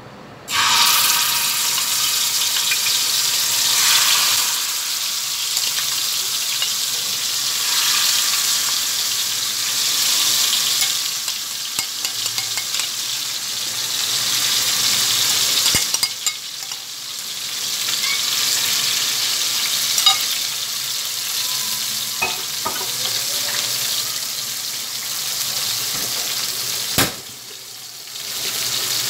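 Yogurt-marinated chicken sizzling loudly as it hits hot oil in a frying pan, starting suddenly about half a second in, with a few sharp clicks of utensils against the pan.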